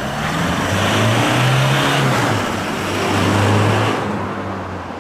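Toyota Hilux GUN125's 2.4-litre turbo-diesel running through a Ganador sport muffler at mid speed. The exhaust note swells about a second and a half in and again around three and a half seconds, then eases off.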